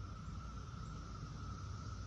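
Steady, high-pitched hum of cicadas droning in the distance, with a low rumble on the microphone under it.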